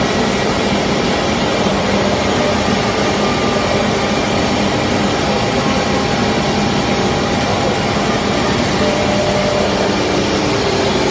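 Four-spindle pneumatic tool-change CNC router running, a loud, steady machine noise with several held tones from the spindles.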